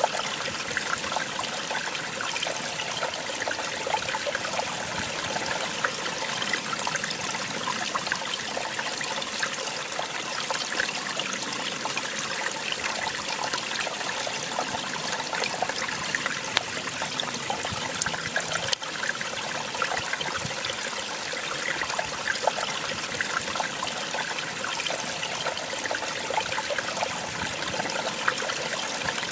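Small waterfall splashing steadily, water falling and trickling over rocks, with one brief click at about nineteen seconds.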